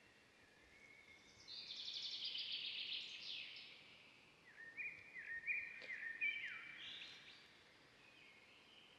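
Wild birds calling over a faint steady outdoor background: a loud, rapid trilling call that sweeps downward about two seconds in, then a run of short chirps repeated and stepping up and down a few seconds later.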